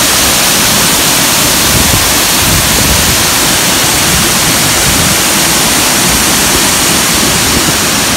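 Waterfall swollen by recent storms: a loud, steady rush of falling water.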